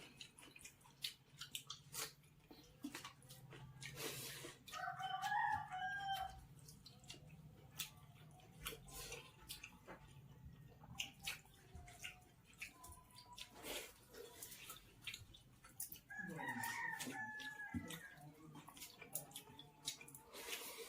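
A rooster crowing twice, once about four and a half seconds in and again about sixteen seconds in, over scattered small clicks and drips of eating wet rice by hand.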